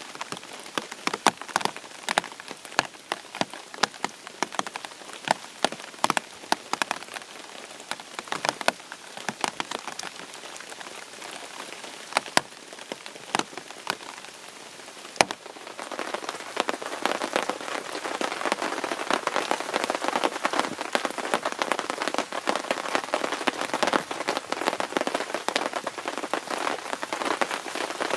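Rain falling, with many sharp separate drop hits over a steady hiss, becoming heavier and denser about halfway through.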